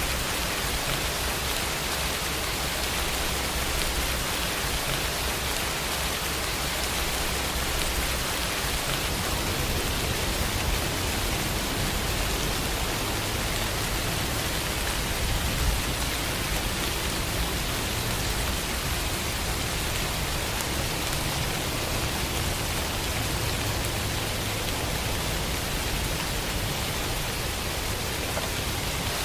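Steady heavy rain, an even hiss of falling water with a low rumble underneath and a single brief louder patter about halfway through.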